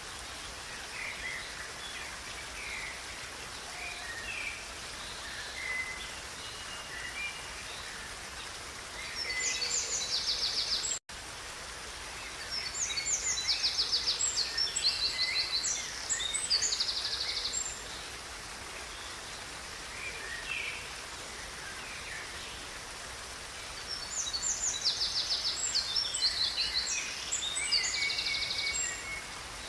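Songbirds singing over the steady rush of a river: scattered short chirps throughout, and three spells of fast, high, rattling trills in the first half, the middle and near the end. The sound drops out for an instant about eleven seconds in.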